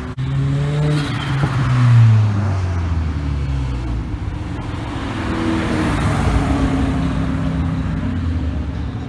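Car engines accelerating past. The exhaust note is loudest about two seconds in, then drops in pitch as the car moves away, and a second engine note builds around six seconds in.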